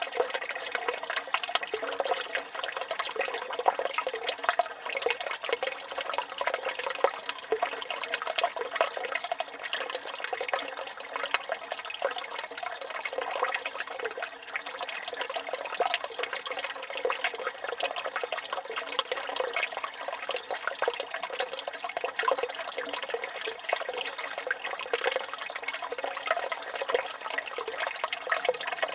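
Water running steadily from a village fountain's spout and splashing into its basin.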